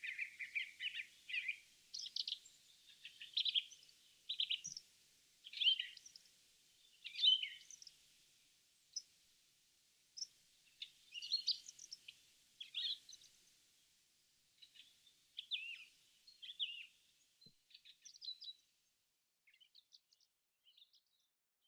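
Small songbirds singing: a run of short, quick, high chirping phrases that thin out and grow fainter near the end.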